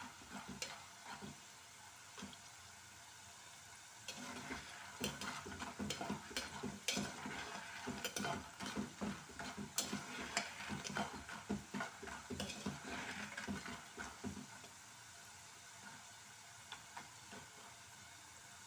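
Raw banana (nendran) chips deep-frying in bubbling oil in an aluminium pot, with a steady sizzle. From about four seconds in until about fourteen seconds, a perforated metal spoon stirs them, scraping and clicking against the pot. The oil is still bubbling hard, the sign that the chips are not yet fully fried.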